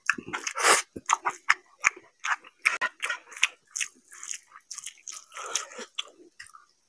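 Close-miked chewing of a mouthful of fried rice, with irregular wet smacks and clicks of the mouth and lips.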